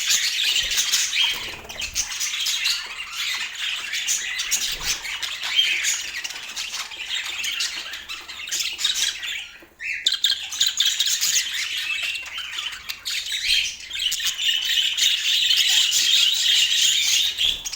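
Budgerigars chattering and squawking continuously, a dense high warble that breaks off for a moment about ten seconds in, then resumes.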